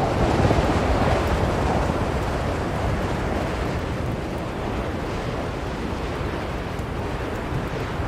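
Blizzard wind blowing steadily, a dense rushing noise heaviest in the low and middle range, that swells in a gust within the first second or two and then eases slightly.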